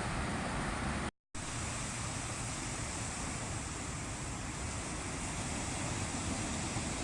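Steady wind noise on the microphone over the wash of surf on the beach, cutting out to silence briefly about a second in.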